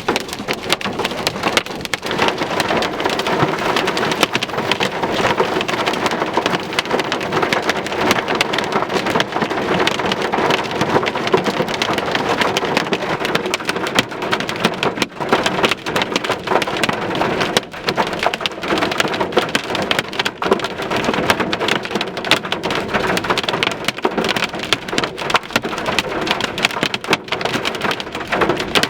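Heavy thunderstorm downpour: a dense, steady patter of drops striking a surface, loud throughout.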